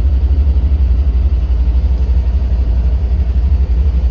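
1955 Ford Thunderbird's Y-block V8 idling steadily just after a cold start, running on a Summit 500 CFM carburetor with an electric choke. A low, even rumble with a regular pulse.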